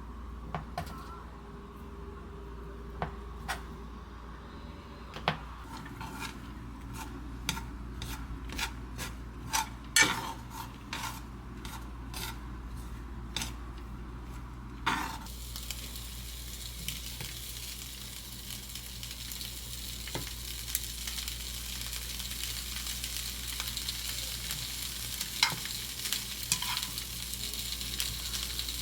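Sharp kitchen-utensil clicks and taps, then about halfway through a steady sizzle starts as food begins frying in hot oil, with a few clinks over it.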